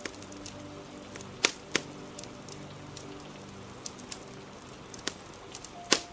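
Crackling fire giving a few sharp pops, the loudest about a second and a half in, just after, and near the end, over a steady hiss of rain, with soft background music underneath.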